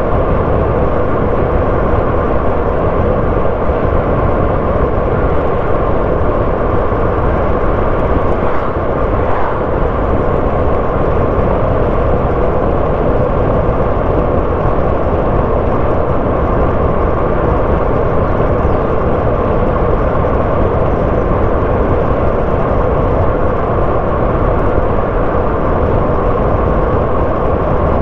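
Car driving along a road: a steady mix of engine and tyre-on-road noise.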